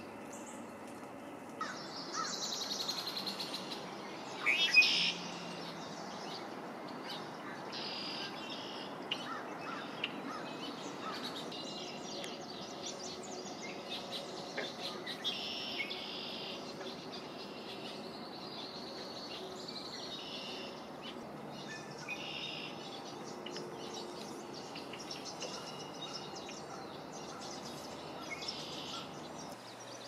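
Several birds singing and calling over a steady background hiss, with one loud, sharp call about five seconds in.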